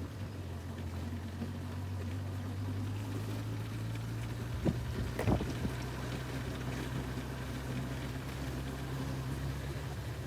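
Honda CB1000R's inline-four engine running steadily under way, with wind noise over the rider's microphone. The engine note shifts a little in pitch partway through, and there are two short knocks about halfway through.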